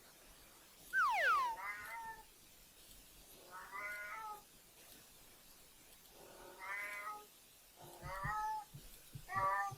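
A cat meowing repeatedly, about six meows over several seconds, the first a loud one falling in pitch.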